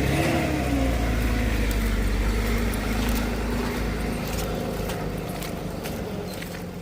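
A vehicle engine running steadily, slowly fading away, with a few light clicks near the end.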